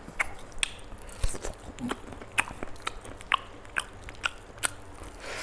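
Close-miked chewing and biting of spiced roast chicken: an irregular run of sharp, wet mouth clicks and smacks, a few each second.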